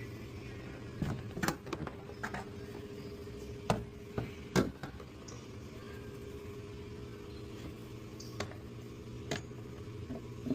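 2019 Honda Pilot's V6 engine idling steadily with a vacuum leak at the air intake tube, with several sharp clicks and knocks over it.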